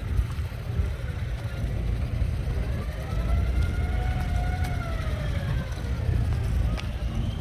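Outdoor traffic rumble with a distant siren. About halfway through, its wail rises slowly and then falls away over a few seconds.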